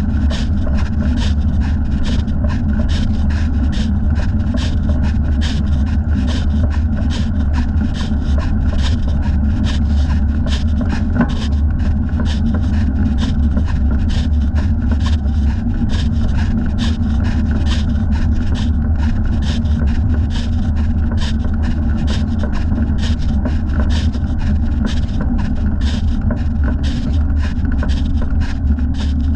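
Bicycle ride heard from a thigh-mounted camera: a steady low rumble of wind and road noise, with a rhythmic scraping rub about two to three times a second that goes with the leg's pedalling motion.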